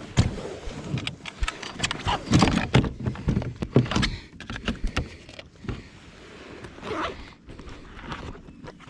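Fishing tackle being handled aboard a kayak while the lure is changed from a spinnerbait to a swim jig: a quick run of knocks, clicks and rustles, busiest in the first half and thinning out later.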